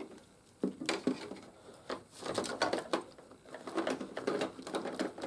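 Plastic action figures being handled and set down: irregular light clicks, taps and rattles of hard plastic.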